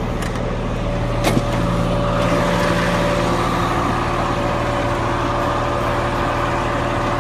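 Roll-off truck's engine running steadily. A sharp click comes about a second in, after which a steady whine and louder engine noise set in.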